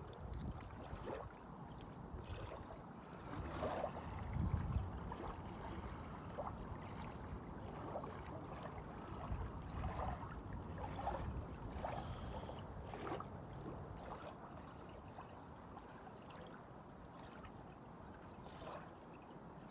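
Small waves lapping and splashing, with wind buffeting the microphone, gustiest about four seconds in.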